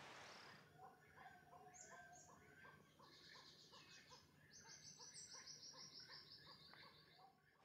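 Faint birds calling: a run of short repeated notes, about two a second, with higher chirps over them and a fast, even trill in the second half.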